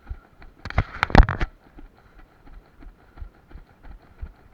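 Footsteps of a runner on an obstacle course, with a short loud burst of knocks and rustling about a second in.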